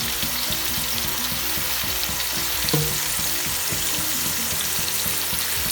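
Marinated chicken pieces frying in hot coconut oil in a heavy-bottomed uruli: a steady dense sizzle with scattered small crackles, and one short louder pop about two and a half seconds in.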